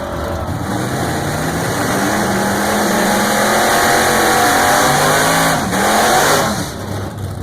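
Drag racing car making a pass down the strip, its engine revving higher and higher under full throttle, pitch dipping briefly and climbing again near the end, then fading as it moves away.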